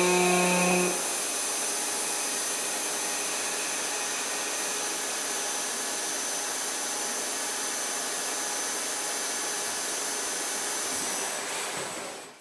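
Miyano BNE-51SY CNC lathe running: a steady whirring noise with a high steady whine over it. A lower steady tone sounds for about the first second, and the noise fades out at the end.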